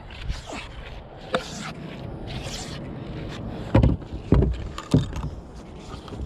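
Water swishing and splashing around a kayak, with three heavy knocks against the boat about four to five seconds in.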